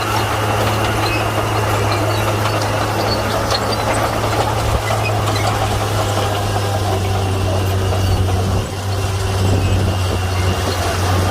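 Komatsu D41P crawler bulldozer's diesel engine running steadily as the machine works, a continuous low hum. The level dips briefly about two-thirds of the way through.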